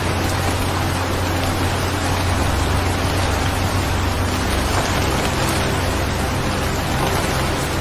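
Steady rain sound, a continuous even hiss of falling rain with a low rumble under it.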